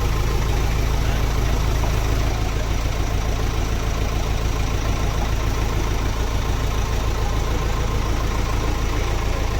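JCB machine's diesel engine idling steadily, a constant low hum.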